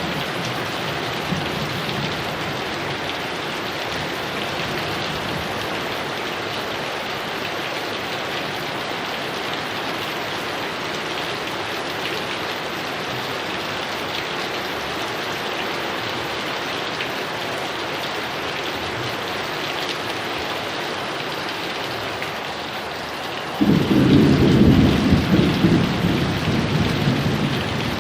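Steady heavy rain, then a sudden clap of thunder near the end that rolls on for a few seconds.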